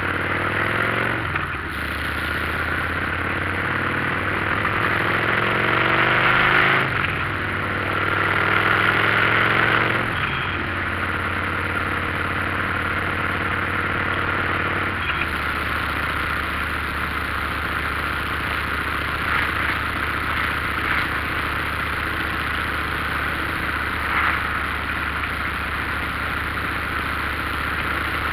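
Motorcycle engine pulling through the gears: its pitch climbs in three runs, with a gear change between each. From about halfway it holds a steady tone at cruising speed, under a constant rush of wind noise.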